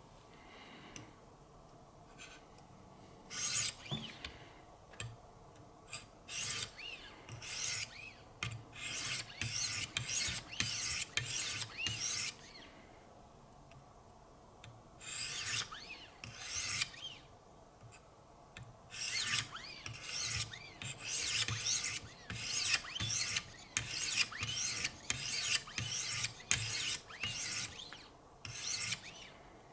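Fine-grit (800/1000) diamond stones of a Wicked Edge guided sharpener stroked along an S90V steel knife edge. The rasping strokes come about two a second, in runs broken by short pauses, starting about three seconds in.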